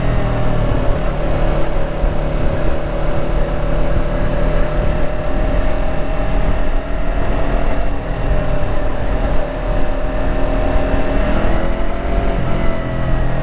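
Yamaha R3's parallel-twin engine running at fairly steady revs under way, the pitch easing slightly early on and rising a little near the end.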